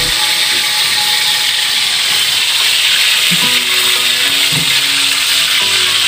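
Egg-coated stuffed crab shell (crab relleno) frying in a little oil in a wok: a steady sizzle.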